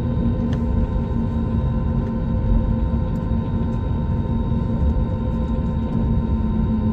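Airliner cabin noise: a steady low rumble with constant humming tones running through it, unchanging throughout.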